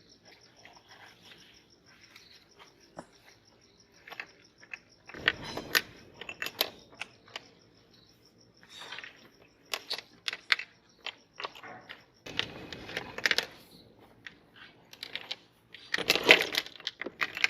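Sticks of chalk clattering and crunching in a metal meat grinder: scattered hard clicks, with several denser bursts of clatter and crunch.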